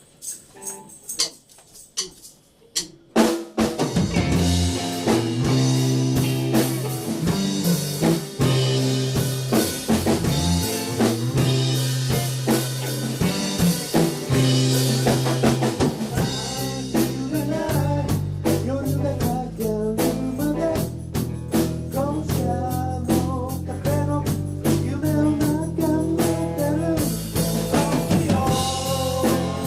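A rock band starting a song: a few sparse drum hits for about three seconds, then the full band comes in with drum kit, bass and guitar.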